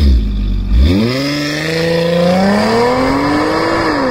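Car engine accelerating hard, its pitch climbing steadily after a deep low rumble at the start. Near the end the pitch dips briefly, then climbs again.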